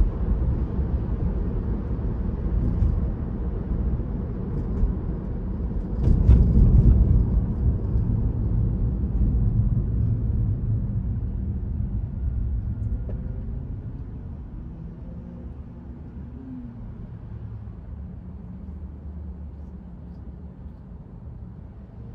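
Road and tyre rumble inside a Tesla's cabin as it drives, with a brief louder jolt about six seconds in. The rumble then fades steadily as the car slows for the traffic light ahead.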